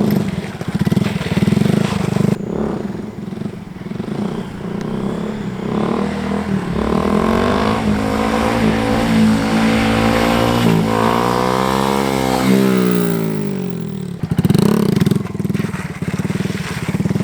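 Dirt bike engine running and revving: its pitch climbs steadily through the middle, drops away, then rises briefly again near the end.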